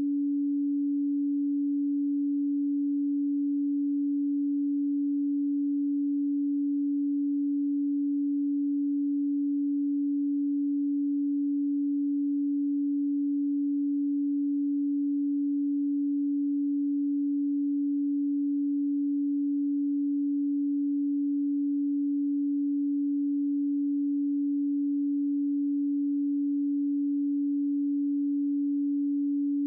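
A pure 285 Hz sine tone, electronically generated and held at one steady pitch and level with nothing else over it.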